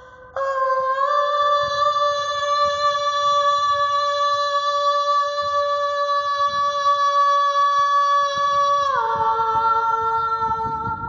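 A held chord of wordless backing vocals, several voices sustaining steady notes. It steps up slightly about a second in, then slides down to a lower chord near the end.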